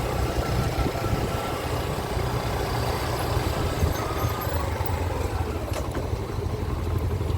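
Small-displacement motorcycle engine running steadily with road noise, a steady low rumble and a faint falling whine in the middle.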